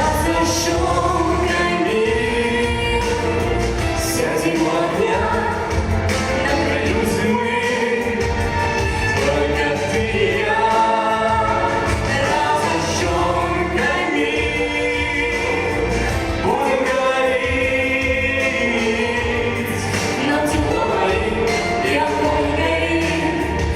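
A chanson ballad sung live over instrumental accompaniment with a steady bass line.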